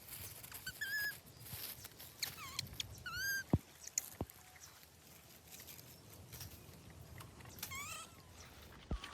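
Baby monkeys giving short, high-pitched squeaky calls several times, with a couple of sharp clicks in between.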